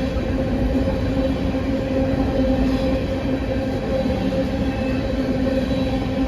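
Train running steadily: a constant engine drone over a low rumble.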